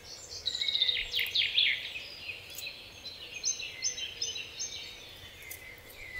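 A bird singing: a run of quick whistled notes in the first couple of seconds, then a short series of about five repeated high notes a little past the middle.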